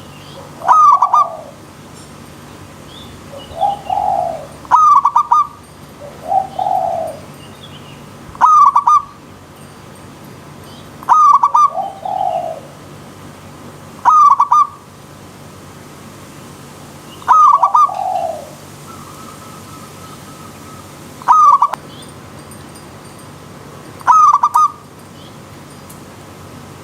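Zebra dove (perkutut) cooing, short loud calls repeating about every three seconds, with softer, lower calls in between some of them. Under the calls runs a steady hiss of running stream water.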